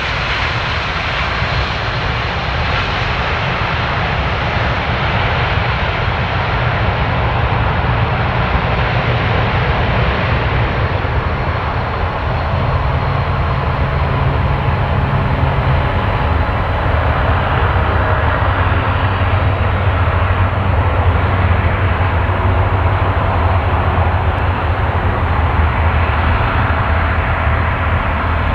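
Boeing 767-300 airliner's jet engines running loud and steady, with a deep low rumble under a broad hiss whose highest part slowly fades away.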